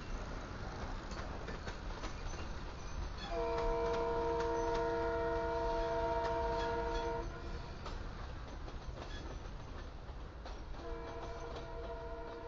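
A freight train's cars roll by with a steady rumble and clatter of wheels on rail. A locomotive air horn sounds a single chord of several notes, starting about three seconds in and lasting about four seconds, then starts again near the end.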